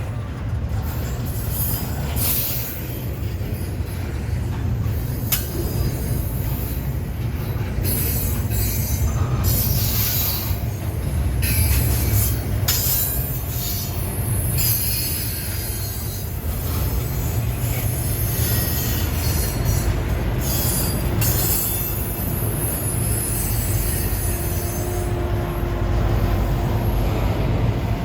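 Train rolling past: a steady low rumble of the cars and wheels on the rails, with high-pitched wheel squeal that comes and goes.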